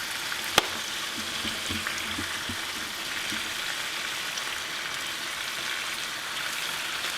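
Seafood frying in olive oil in a pan, a steady sizzling hiss, with a single sharp click about half a second in.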